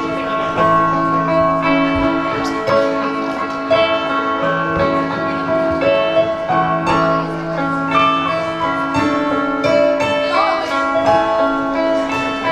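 Live band playing an instrumental passage led by guitar, with sustained chords that change every second or two.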